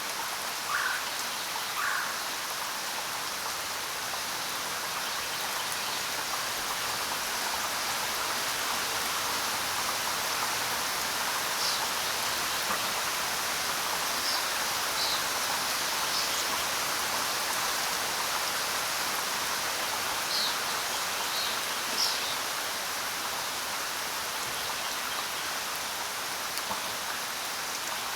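Steady rain falling on the ground, an even hiss, with a few sharper single drops standing out near the start and several more in the middle.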